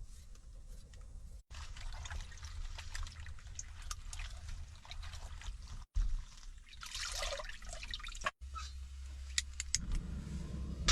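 Water splashing, trickling and dripping as food is washed and handled, in several short stretches broken by abrupt cuts, over a low steady hum.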